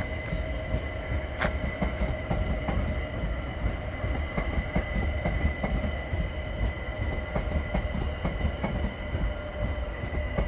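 London Overground Class 378 electric train pulling out of the station: a steady low rumble with a steady high-pitched whine and rapid light clicks of wheels over rail joints.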